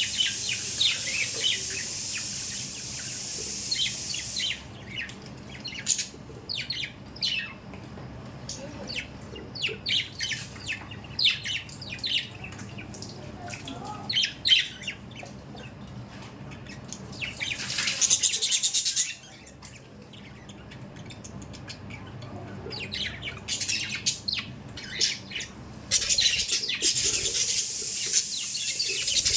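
Budgerigars chirping and chattering in many quick, short calls. A steady hiss comes and goes three times, at the start, just past the middle and near the end.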